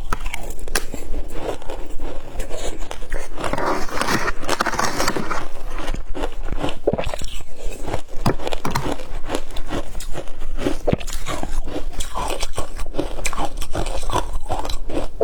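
Close-up crunching and chewing of shaved ice in the mouth, a rapid run of crisp crunches with a fuller, louder stretch about four seconds in.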